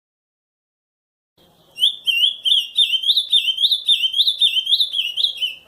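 Ultramarine grosbeak (azulão) singing the camaquã song type. After about a second and a half of silence comes a fast, even run of clear notes, about four a second, each rising and then falling.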